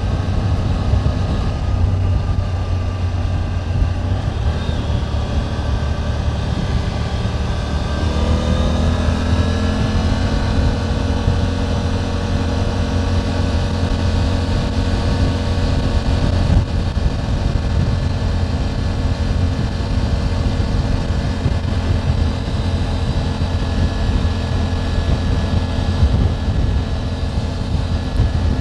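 Triumph Tiger 900 GT Pro's inline three-cylinder engine running on the road, its pitch climbing from about four seconds in to about ten seconds in, then holding steady.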